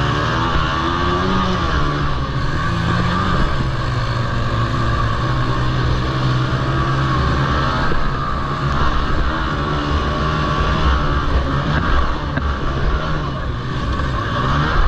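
Several Honda TRX90 quads racing, their small single-cylinder four-stroke engines running together, pitch rising and falling as riders rev and back off.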